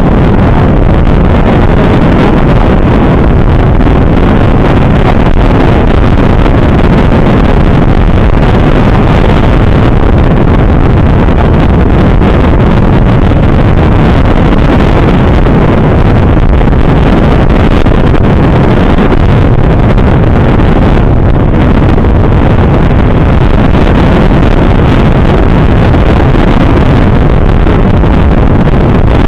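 Steady, loud wind buffeting on the microphone of a moving motorcycle, mixed with the running engine and road noise.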